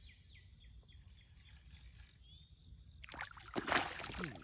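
Water splashing in several loud bursts from about three seconds in: a hooked bass thrashing at the surface as it is brought up to the kayak. Before that, faint outdoor background with a few falling insect chirps.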